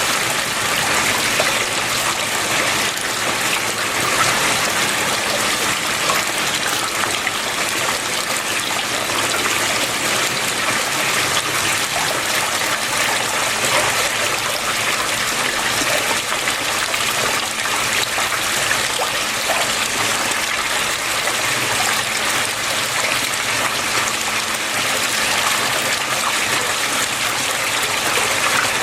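Flowing water running and trickling steadily.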